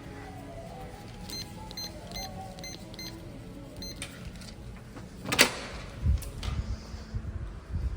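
About seven short electronic beeps, as from a door keypad being pressed, then a sharp latch click and several door thumps, with a low hum starting partway through.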